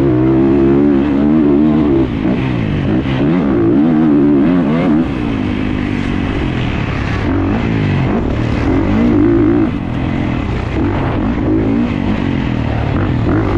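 Dirt bike engine revving, its pitch climbing and dropping again and again as the throttle is opened and closed on a motocross track.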